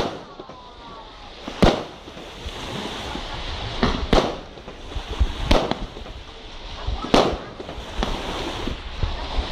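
Aerial firework shells bursting: about seven sharp bangs, spaced irregularly a second or two apart, with a constant noisy background between them.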